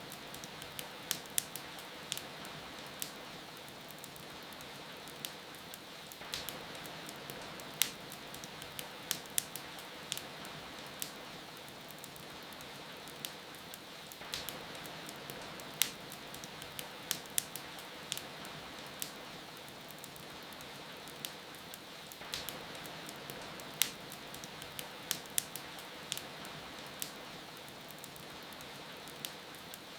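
Wood fire in a fireplace crackling, with irregular sharp pops and snaps, over a steady hiss of rain.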